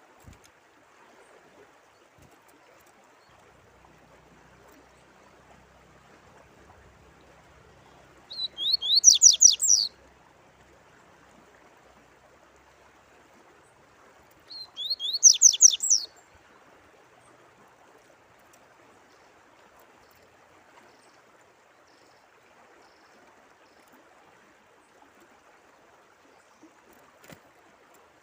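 A songbird sings two short phrases of quick, falling high notes, about six seconds apart, over a faint, steady trickle of running water.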